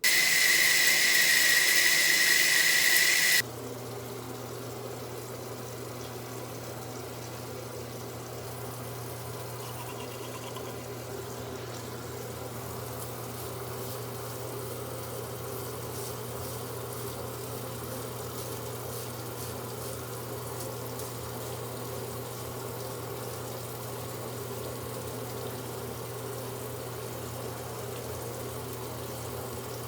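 Water running: a loud hissing spray for about the first three seconds, then a steadier, quieter rush over a constant low hum.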